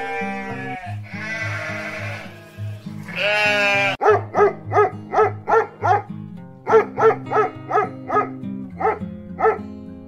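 Animal bleating: a few long, wavering calls, then a quick run of short calls about two a second, over background music.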